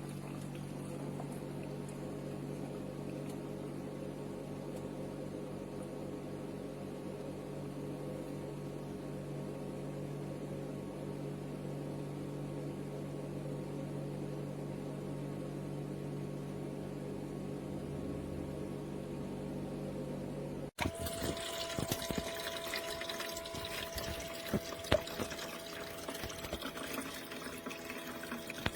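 Small countertop ice maker running: a steady machine hum with several held tones and water moving through it. About 21 seconds in the sound cuts off suddenly and is replaced by a different running sound with a higher steady tone and scattered clicks.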